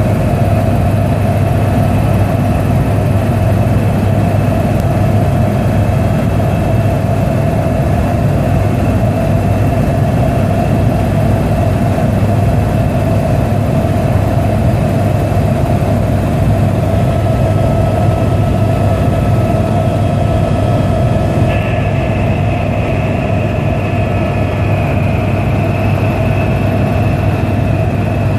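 Helicopter in flight: a loud, steady drone of rotor and engine with a thin high whine over it. The whine shifts slightly about three-quarters of the way through.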